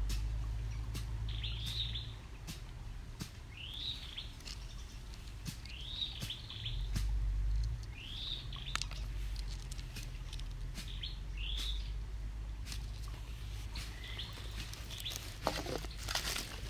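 A songbird repeating a short call, a quick rising-then-falling note, every second or two, over a low rumble. Small clicks run throughout, and a denser crackling comes near the end.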